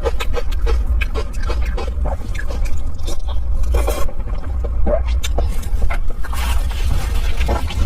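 Close-miked eating: irregular chewing and mouth clicks with a few longer smacking or slurping noises, over a steady low rumble.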